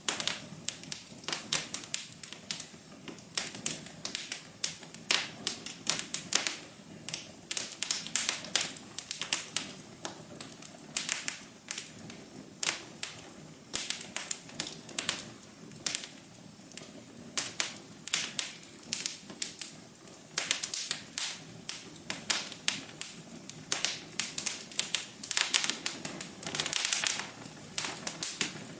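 Fireplace fire crackling: dense, irregular snaps and pops over a soft steady hum.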